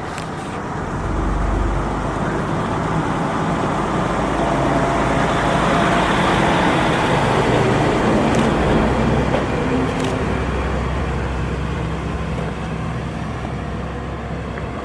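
Kanto Railway KiHa 2000 diesel railcar heard from inside as it pulls away: the diesel engine working under load with the running noise of the wheels on the track. It grows louder through the first half as the train gathers speed, then eases slightly.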